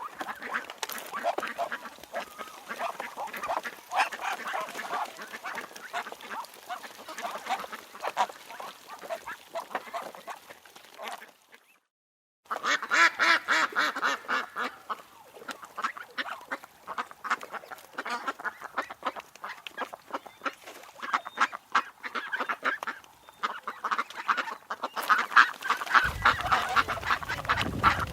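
A flock of ducks quacking in a dense, continuous chorus. It breaks off in a brief silence about twelve seconds in and resumes louder. A low rumble joins near the end.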